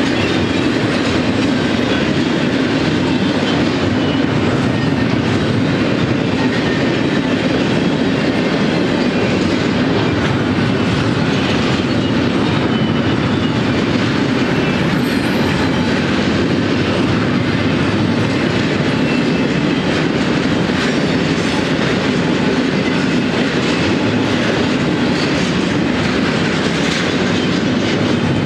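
Double-stack intermodal freight train rolling past at a steady speed: a continuous, even rumble of steel wheels on the rails as the container cars go by.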